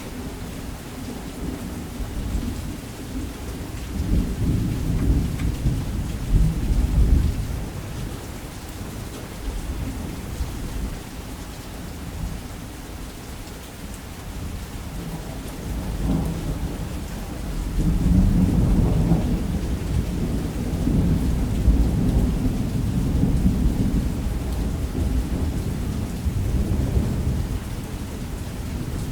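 Thunderstorm: a steady hiss of heavy rain with long rolling thunder, one deep rumble peaking around 7 seconds in and a second, longer one building from about 18 seconds in.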